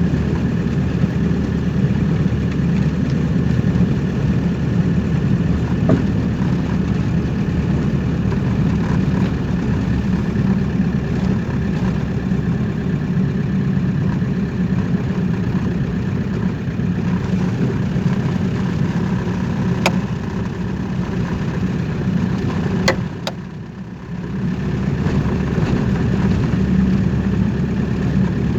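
Car engine and road noise while driving, a steady rumble with a brief drop in level about 23 seconds in. A few sharp clicks stand out over it, around 20 and 23 seconds in.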